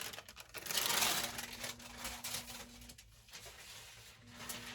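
Rustling and light clicking of sublimation transfer paper and a hardboard blank being handled and positioned, loudest in the first couple of seconds, over a faint steady hum.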